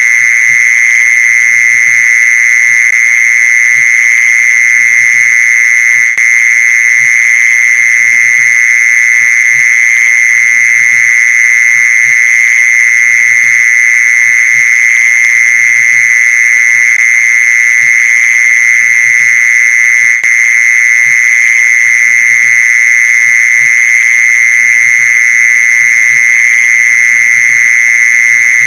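Mole cricket calling song: a loud, continuous trill held at one steady high pitch, with two momentary breaks.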